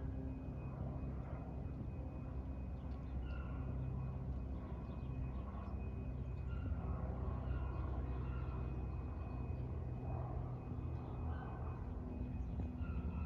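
Single-engine Cessna 170B light plane passing overhead on its landing approach, its six-cylinder piston engine running with a steady hum. Birds chirp over it.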